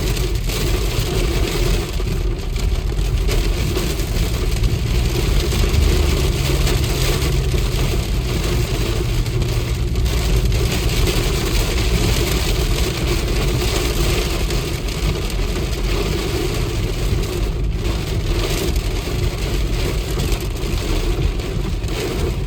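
A vehicle engine running steadily under a dense, even hiss of heavy rain.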